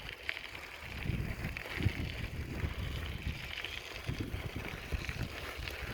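Wind buffeting the microphone while riding a bicycle, an irregular gusty rumble that picks up about a second in, over a steady hiss.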